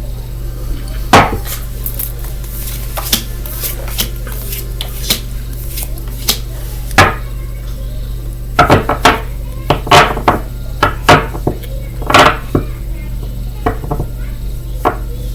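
Tarot cards being handled and set down on a table: irregular sharp taps and slaps, a few spread out and then a quick cluster past the middle, over a steady low electrical hum.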